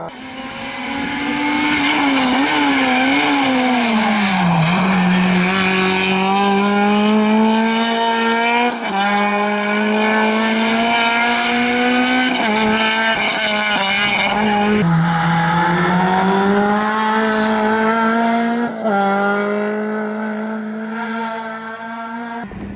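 Rally car engine running hard at high revs, its pitch climbing and then dropping at several gear changes, with a wavering, unsettled pitch in the first few seconds.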